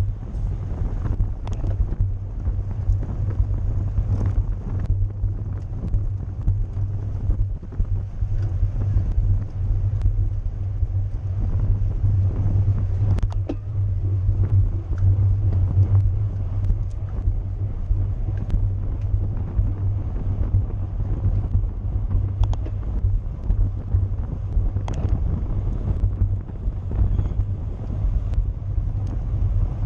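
Wind buffeting the microphone of a camera riding along in a bicycle race: a steady, loud low rumble, with a few faint clicks now and then.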